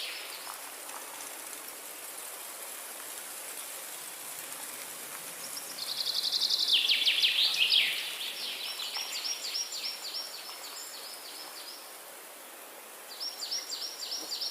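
Songbird singing in a forest: rapid trilled phrases of high, quickly repeated chirps, over a steady soft hiss of forest ambience. The first phrase starts about halfway through, is the loudest, and carries on in quieter runs; another phrase comes near the end.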